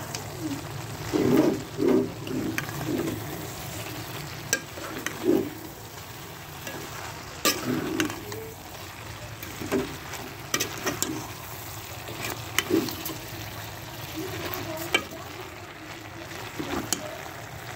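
Chicken mince and shredded cabbage sizzling in a pan as they are stirred with a metal spoon, which scrapes and knocks against the pan now and then.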